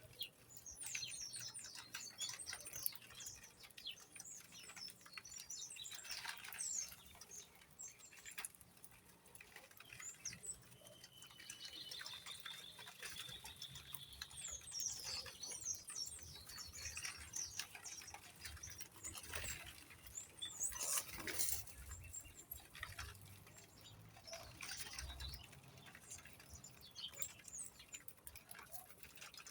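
Small birds chirping and twittering in quick high calls, one held whistled note partway through, over light pattering and scratching clicks.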